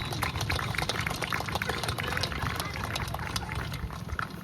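A small crowd applauding: a dense patter of hand claps that thins out near the end, over a steady low rumble.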